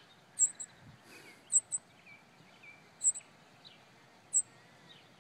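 Small birds chirping: short, very high, thin chirps, single or in quick pairs, repeated about every second and a half, over fainter twittering calls.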